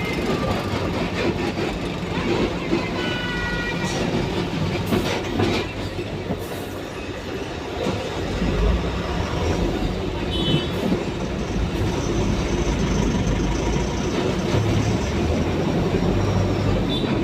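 Steady rumble and rattle of a moving vehicle, with a few brief high tones around three seconds and again about ten seconds in.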